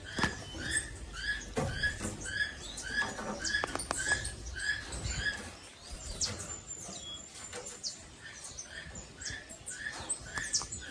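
A bird calling in a steady series of short, sharp notes, about two a second, with scattered clicks and knocks among them.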